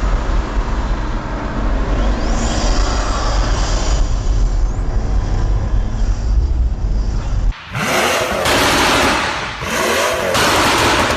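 Pagani Zonda's Mercedes-AMG V12 exhaust: a steady deep rumble with faint pitch glides for about seven seconds. Then a sudden cut to a brighter, harsher stretch of revving that rises and falls, dipping briefly about nine and a half seconds in.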